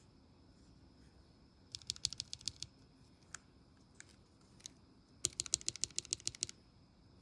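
Lubed Syryan Chick linear mechanical keyboard switches being typed on: a quick run of keystrokes about two seconds in, a few single presses, then a longer quick run.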